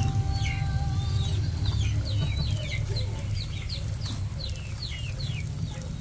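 Birds peeping: a run of short, high notes, each falling in pitch, about two a second, over a steady low rumble.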